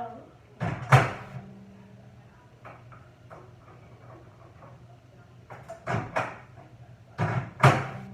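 A door clunking open and shut in quick double knocks, about a second in and twice more near the end, over a steady low hum.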